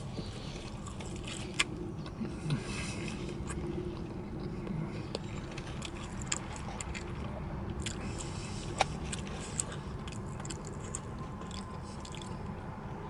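A man chewing a mouthful of steak sandwich, with scattered faint clicks and a few sharper ticks over a low steady hum.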